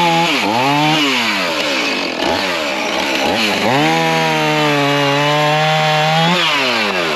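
A small engine running at high speed, its pitch dropping sharply and climbing back up about five times, as under repeated throttle or load changes.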